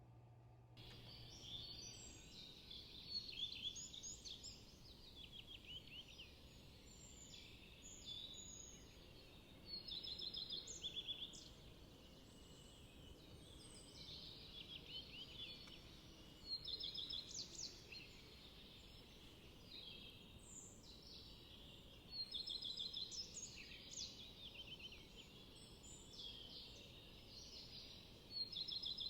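Small songbirds singing, with short phrases of quick high notes coming every few seconds over a faint steady background hiss.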